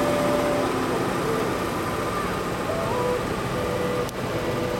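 Turbo-diesel garden pulling tractor engine running steadily, with a series of short, steady tones repeating every half second or so from about a second in.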